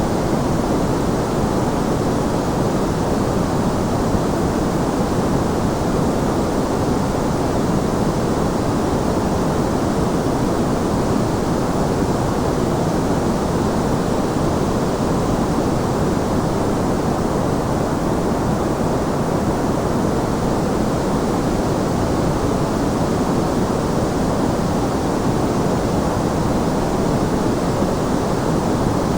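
Continuous white noise, an even, unchanging hiss weighted toward the low and middle range.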